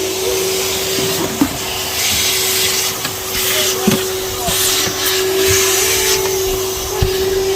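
Henry vacuum cleaner running with a steady motor whine. The hiss of air through the nozzle swells and fades as it moves, with a few light knocks.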